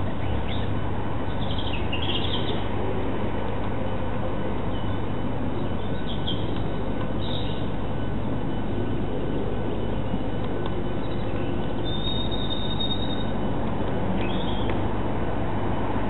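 Steady hum and hiss with brief bird chirps and calls scattered through it. Most are short; one thin, high, held note comes about twelve seconds in.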